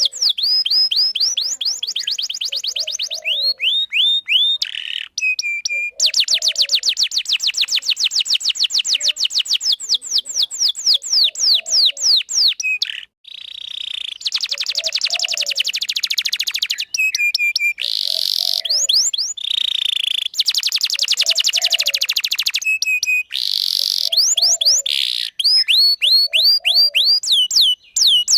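Canary singing a long, continuous song: phrase after phrase of rapid trills made of quick, high notes sweeping downward, with brief breaks between phrases.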